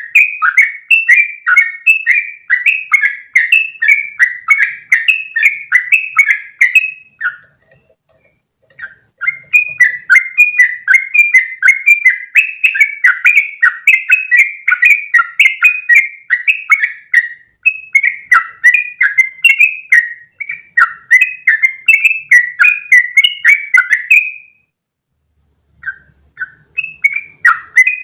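Yellow-vented bulbul (trucukan) singing long rapid runs of short bubbly notes, several a second, with two brief pauses, about 7 seconds in and near the end.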